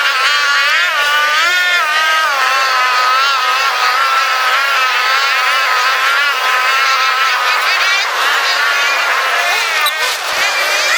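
Motorcycle engines running in traffic, with the pitch rising and falling as the engines rev up and ease off.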